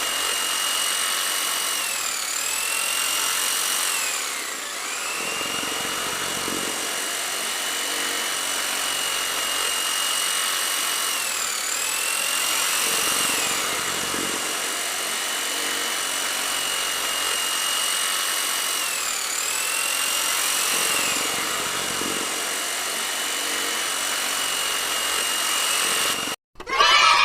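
Small electric DC motor of a homemade model tractor running with a steady high whine, its pitch sagging and recovering several times as the load changes. It cuts off abruptly near the end.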